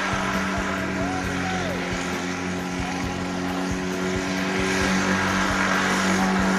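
Rotax 582 two-stroke twin engine on a microlight running steadily at a constant speed.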